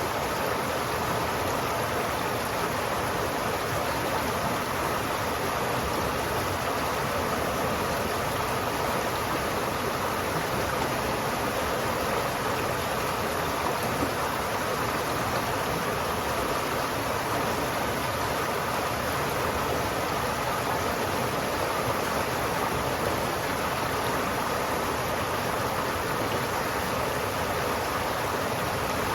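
River water flowing, a steady, even wash of water noise with no breaks or separate events.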